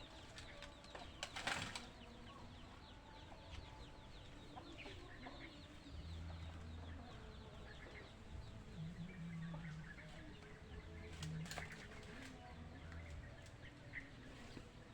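Chicken wings flapping in two short bursts, about a second and a half in and again near eleven seconds, over faint, continual high chirping.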